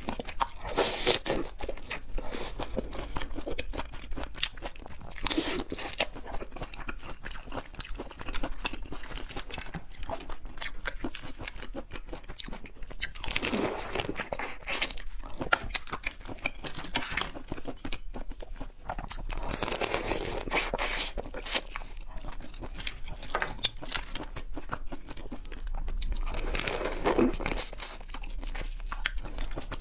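Close-miked chewing and crunching of shrimp, a steady run of small wet clicks with louder crunchy bites every few seconds.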